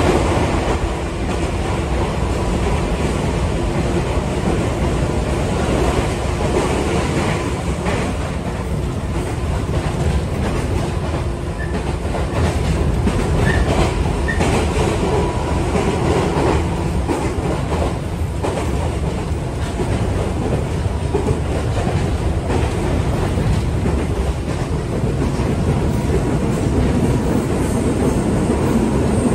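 Running noise inside a JR 205 series 3100-subseries electric train's motor car: a steady rumble of wheels on rail with a faint steady hum and occasional clicks. The train is in a tunnel for most of it and comes out near the end.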